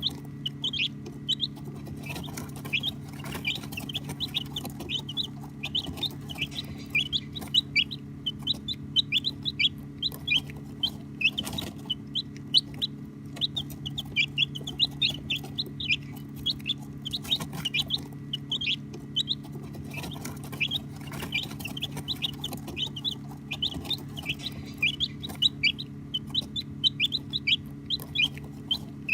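A brood of baby chicks peeping continuously: many short, high chirps overlapping, each a quick slide in pitch, over a steady low hum.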